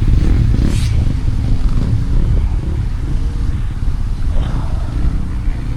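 Steady low rumble of motocross bike engines running, with no single event standing out.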